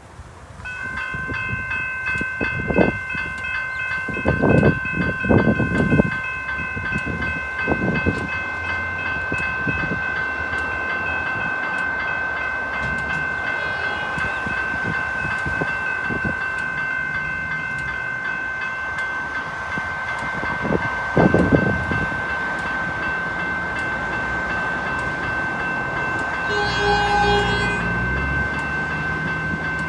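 Suburban electric train at a station, with a steady high-pitched whine of several tones that starts about a second in and holds throughout. Deep rumbling thuds come and go in the first few seconds and again about two-thirds through, and a short burst of pitched tones sounds near the end.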